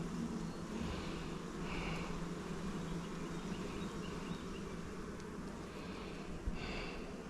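Honeybees buzzing steadily around an open horizontal hive during a frame inspection, a dense low hum, with a single light knock near the end.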